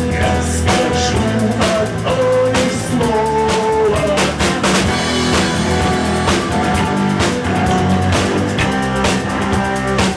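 A live rock band playing an instrumental passage: electric guitar lines over bass and a drum kit keeping a steady beat.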